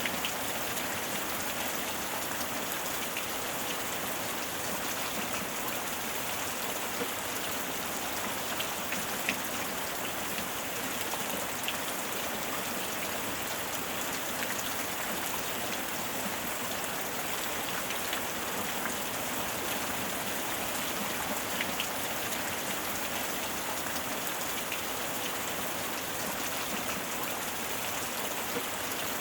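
Steady heavy rain falling, with a dense even hiss and occasional individual drops ticking close by.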